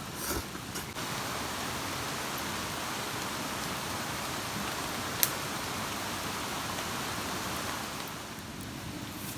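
Steady rain falling, an even hiss of drops, with a few light knocks at the start and one sharp click about five seconds in.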